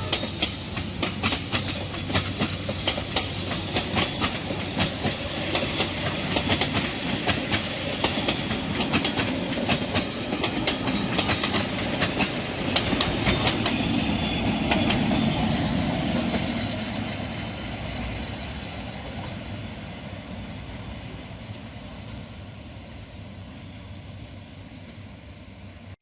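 Passenger train rolling past, its wheels clacking over the rail joints in quick clusters. The clacking thins out and the sound fades over the second half as the train moves away.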